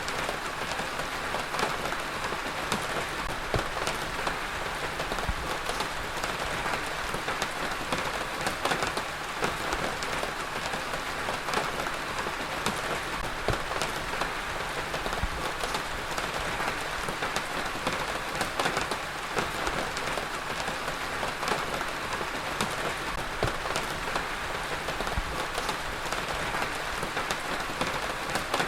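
Heavy rain falling steadily, with a dense hiss of rain and many sharp individual drop impacts on a hard surface.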